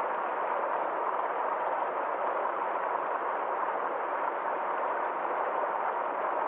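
Small forest stream flowing: a steady, even rush of running water with no change in level.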